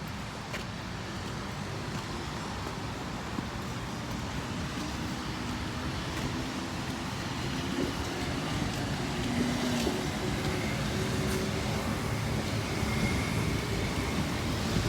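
Road traffic on a busy city street: cars and buses passing with a steady hiss of tyres and a low engine hum, growing a little louder over the second half.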